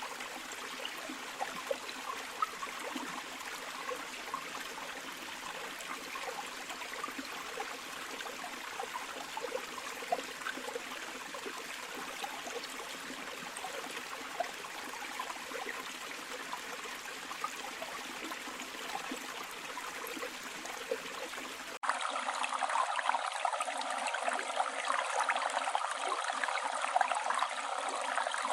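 Flowing river water, a steady rush and babble. About 22 seconds in it cuts abruptly to a louder, thinner-sounding stretch of water with no low end.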